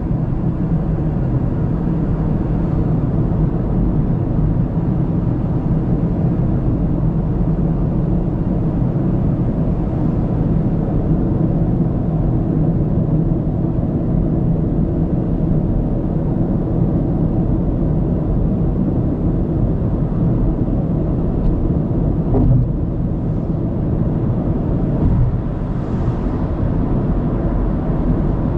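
Steady low rumble of a car driving along a road, tyre and engine noise as picked up by a dashcam, with a couple of brief bumps in the last third.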